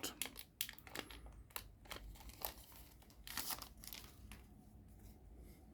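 Crinkling and tearing of a trading-card booster pack wrapper being opened, with scattered crackles and rustles of card handling that thin out after about four seconds.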